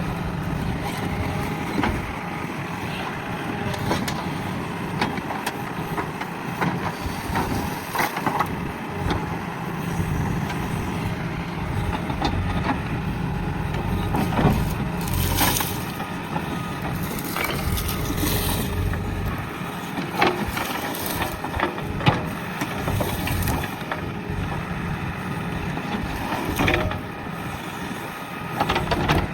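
Diesel engine of a JCB backhoe loader running steadily at work, with scattered knocks and scrapes as the machine works soil and brush, and a couple of brief hissing bursts about halfway through.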